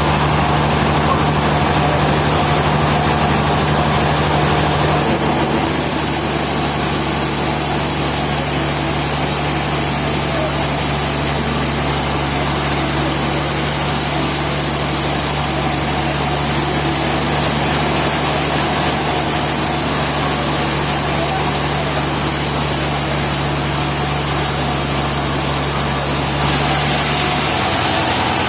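A sawmill's engine running steadily at one speed, with a constant low hum and a hiss above it. The low note drops away and changes just before the end.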